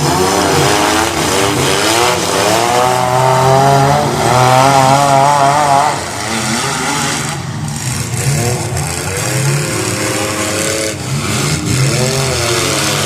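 Several derby cars' engines running and revving at once, their pitches rising and falling as they go.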